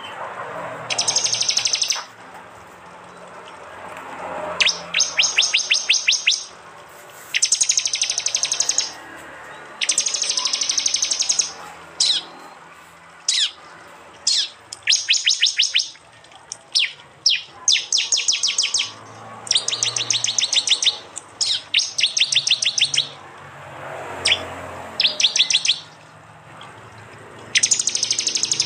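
Prinias (prenjak) giving their sharp 'tembakan' bursts: about a dozen high-pitched rapid trills, each about a second long and made of fast repeated notes, with single sharp chips between them. A bird-mastering recording of wild prinia calls played to train songbirds.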